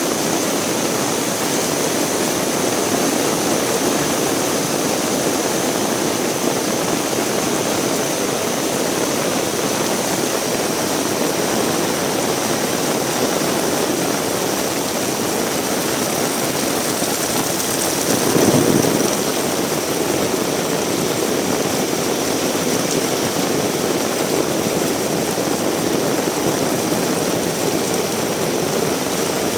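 Heavy rain falling in a steady, dense hiss. About two-thirds of the way through it briefly swells louder for about a second.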